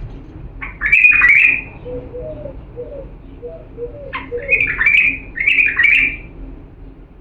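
Bulbul singing: one loud burst of warbled, rising-and-falling phrases about a second in, then three more in quick succession from about four seconds. Faint low notes run in between.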